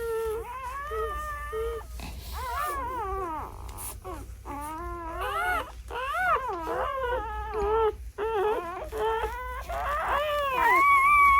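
Newborn German Shepherd puppies crying and squealing, several high, wavering cries overlapping and sliding up and down in pitch.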